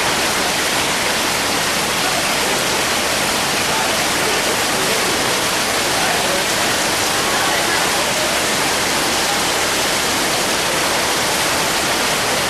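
A river in flood, its high, fast water rushing in a steady, unbroken wash of noise.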